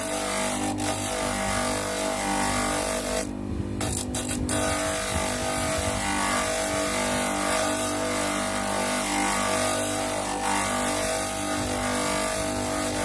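Homemade bench grinder running steadily while its wheel grinds a piece of wood round, a steady motor hum under a grinding hiss, with a brief break about three and a half seconds in.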